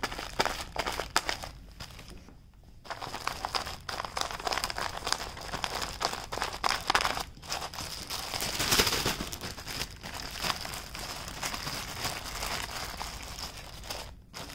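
A facial tissue rubbed hard and fast over a plastic surface, crinkling and scratching in quick strokes as printed ink is scrubbed off, with a short pause about two seconds in.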